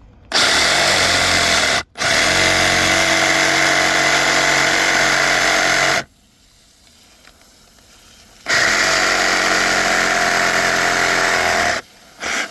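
A power saw cutting through PVC water pipe, running in three long stretches: about a second and a half, then four seconds, then three seconds. A short burst comes just before the end.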